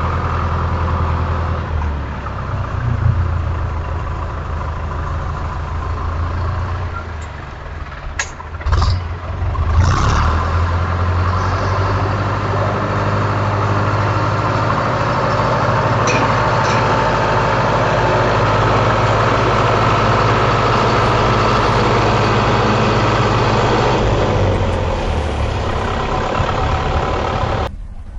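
A vehicle engine running steadily, with a few short knocks about eight to ten seconds in; the sound cuts off suddenly near the end.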